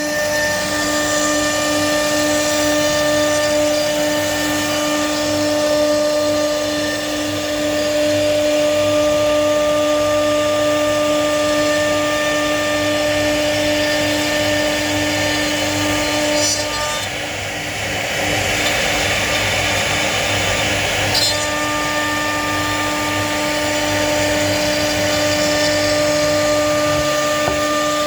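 CNC router spindle running with a 12 mm cutter: a steady whine over a noisy cutting rasp. About two thirds of the way through, the whine fades for roughly four seconds and a harsher rushing noise takes over, then the steady whine returns.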